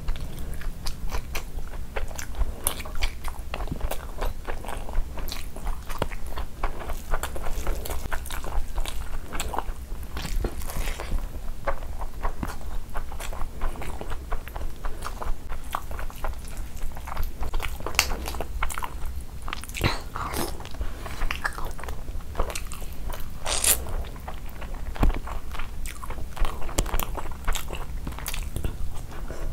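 Close-miked ASMR eating sounds: a person chewing and biting through rice with chicken curry and egg curry, eaten by hand, heard as a dense run of wet clicks and crunches.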